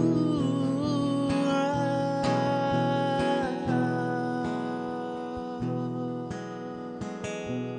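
Acoustic guitar played live: a strummed chord at the start rings on, with a few more notes, and slowly fades away.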